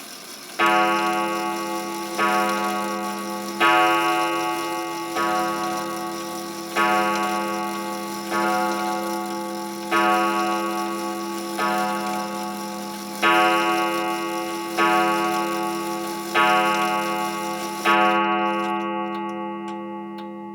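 A clock's chime strikes twelve times, one stroke about every second and a half, each ringing out and fading before the next. Near the end, after the last stroke, sharp ticking can be heard.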